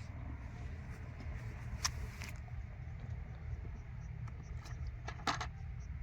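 Tractor engine running steadily as a low rumble, with a few short knocks or clicks about two seconds in and a louder one near the end.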